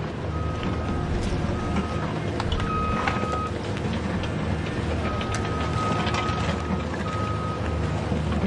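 A recycling truck's engine running steadily with a low drone, while a high single-pitch reversing beeper sounds in uneven stretches, some brief and two of them about a second or more long.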